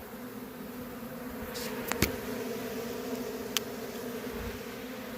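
A swarm of honeybees buzzing in a steady, even hum. A few sharp clicks sound about two seconds and three and a half seconds in.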